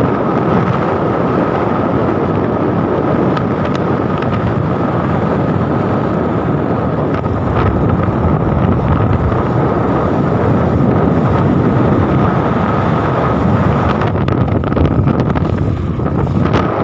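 Heavy wind rushing over the microphone on a moving vehicle during a ride. A thin steady whine runs under the noise.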